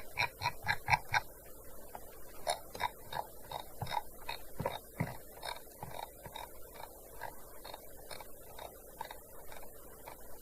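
Typing on a gaming keyboard: irregular keystrokes, a quick run of about half a dozen keys at the start and another burst about two and a half seconds in, then slower, scattered strokes.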